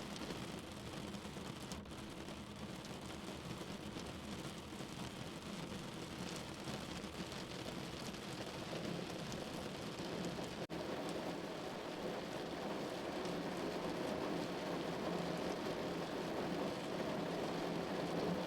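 Steady rain falling, an even dense hiss of drops that grows a little louder in the second half.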